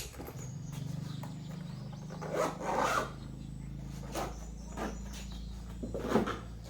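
A steady low hum, with a few short scraping and knocking handling sounds: one longer scrape about two and a half seconds in, two brief knocks around four to five seconds, and another scrape near six seconds.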